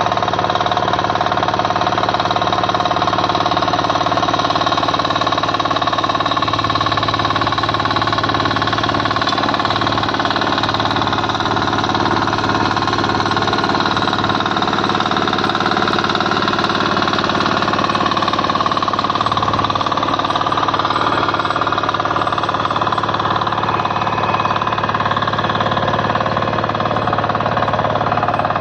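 KisanKraft 406D power tiller's 418 cc single-cylinder diesel engine running steadily, its pitch wavering slightly now and then.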